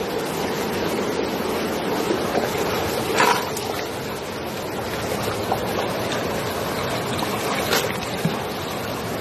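Steady rush of flowing water, with two brief sharp splashes or knocks, about three seconds in and again near the end.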